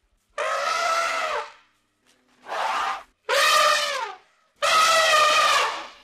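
Elephant trumpeting: four loud brassy calls in a row, each about a second long or less, the third falling in pitch at its end.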